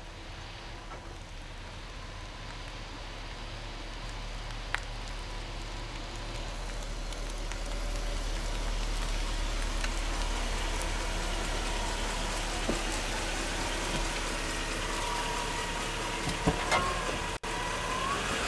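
2001 Mercedes-Benz S500 rolling slowly on the driveway in a brake-noise test, its tyres and engine growing louder as the car comes nearer. There are a few light clicks, and a faint thin tone swells near the end.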